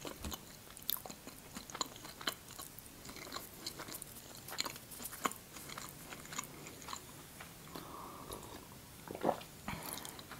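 A person chewing a mouthful of flaky baked pastry close to the microphone, with soft wet mouth clicks and faint crackles, and a few louder clicks near the end.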